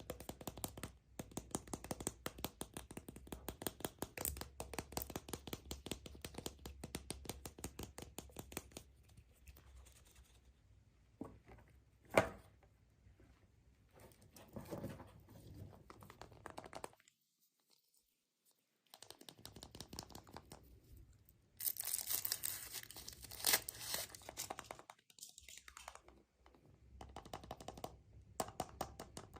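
Close crinkling and tearing of surprise-egg wrappers being unwrapped by hand, in dense rapid crackles, with one sharp snap partway through and a brief silent break.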